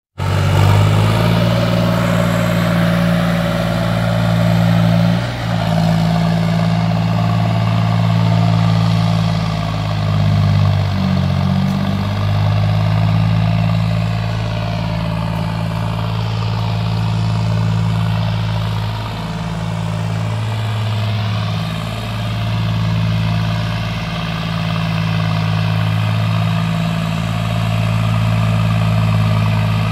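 John Deere 5310 tractor's diesel engine, fitted with an aftermarket turbocharger and a custom exhaust, running steadily at low speed, its note dipping and shifting briefly a few times.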